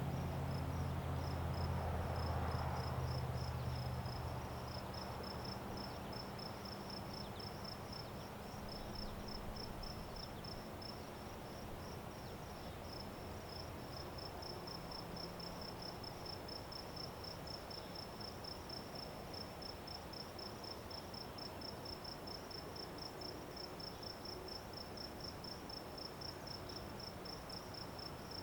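Crickets chirping in a steady, even pulse. A low engine hum fades out over the first few seconds.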